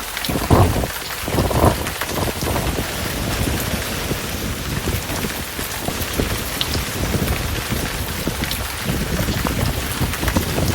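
Heavy rain pouring steadily in a thunderstorm, with a low rumble of thunder in the first couple of seconds.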